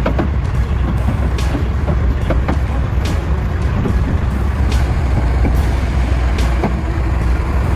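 Heavy truck's diesel engine running with a steady low rumble, with scattered sharp knocks and rattles about once a second.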